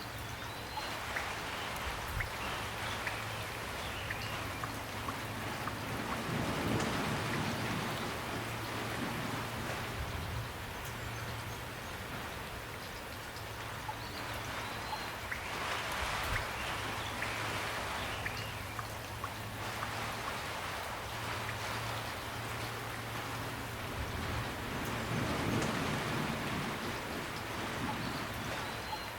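Steady rain falling, with scattered drops ticking, swelling louder and easing back about every nine seconds.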